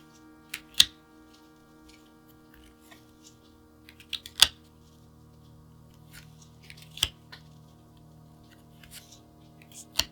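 Card sleeves and their plastic packaging being handled: a few sharp clicks and snaps, the loudest just past the four-second mark, with light crackling between them, over a steady hum.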